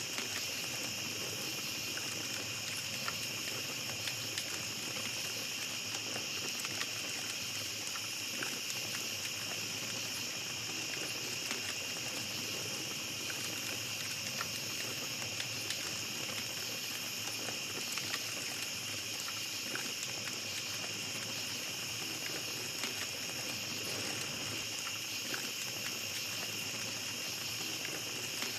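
A steady, continuous high chorus of night insects such as crickets, with small campfire crackles popping here and there throughout.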